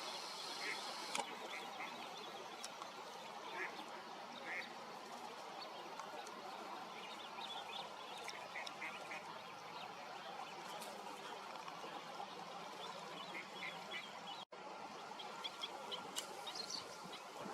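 Waterbirds calling on a lake: short, scattered calls, some in quick little runs of three or four, over a steady outdoor hiss. The sound cuts out for an instant about three seconds before the end.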